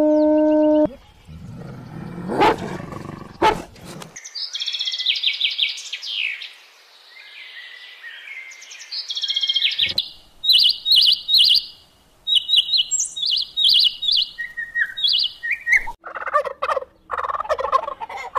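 A sequence of animal calls: a wolf's howl, held on one steady pitch, ends about a second in; after a couple of sharp clicks come runs of high, quick bird chirps and twitters lasting about twelve seconds; and in the last two seconds a turkey tom gobbles in rapid rattling bursts.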